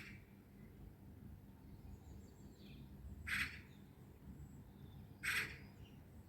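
A bird calling outdoors: two short, harsh calls about two seconds apart, with faint thin chirps from other birds in between.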